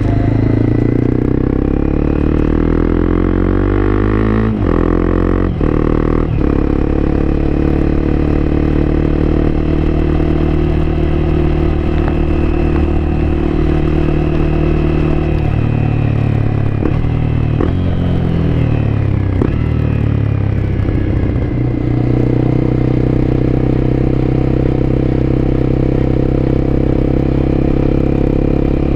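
Honda CBR250R's single-cylinder engine heard on board while riding at a steady pace. There are a few quick gear changes about five seconds in, the engine note falls as the bike slows a little past the halfway mark, and then it holds steady.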